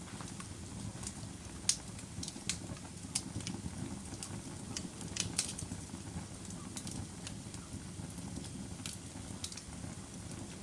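Wood fire in a fireplace crackling: irregular sharp pops and snaps, a couple of them louder, over a steady low rush of the flames.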